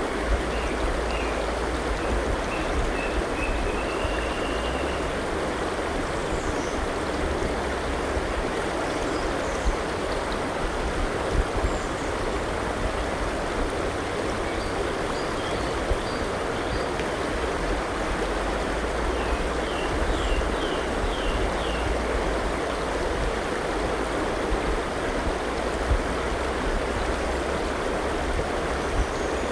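River flowing steadily, with birds chirping faintly over the water: a string of short chirps in the first few seconds and a quick run of about five notes around twenty seconds in.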